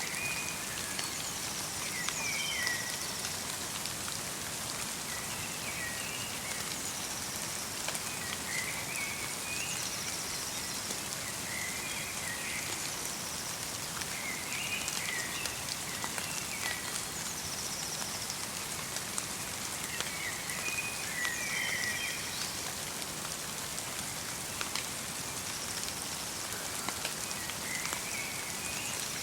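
Light rain mixed with snow pattering steadily, with scattered drop ticks, while a songbird sings short chirping phrases every two to three seconds.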